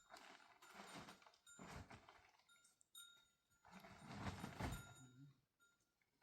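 Faint rustling and shuffling noises in several swells, with light metallic clinks.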